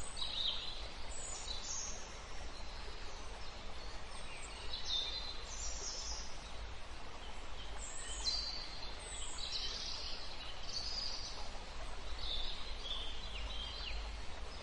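Small birds chirping repeatedly in short high calls that drop in pitch, over a steady low rumble.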